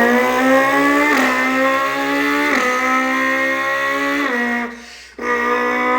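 A man vocally imitating a Ferrari 458's racing exhaust: a steady buzzing drone whose pitch creeps up and then drops suddenly three times, like gear upshifts. He breaks off for breath about five seconds in and starts the drone again.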